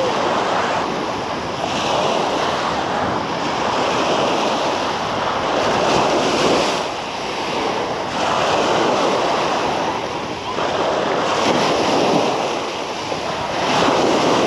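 Sea waves washing onto the beach, the surf swelling and falling every two to three seconds, with wind buffeting the microphone.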